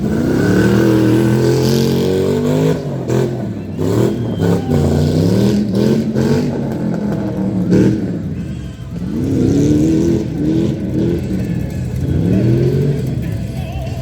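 LS V8 engine of a modified Toyota off-road truck revving hard, its pitch climbing and dropping again and again as the driver works the throttle, with a few short knocks about three to five seconds in.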